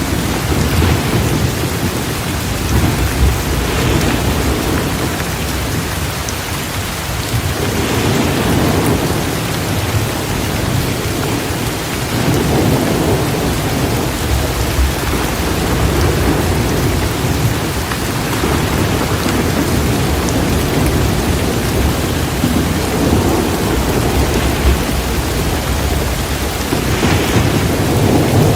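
Steady, heavy rain, with low rumbles of thunder swelling and fading every few seconds.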